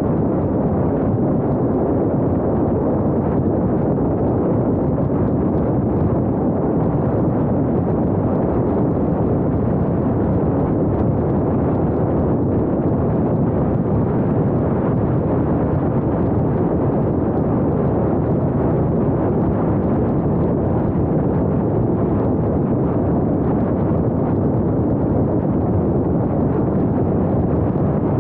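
Steady, even noise of a moving vehicle on the road, mixed with wind buffeting the small action camera's microphone, with no clear engine pitch.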